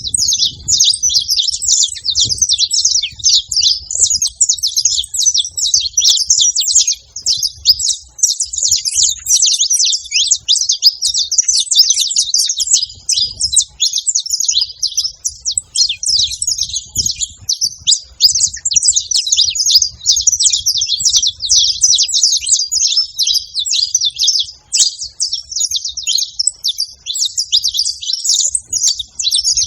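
Wild saffron finches singing without a break, a dense stream of quick high chirps and trills.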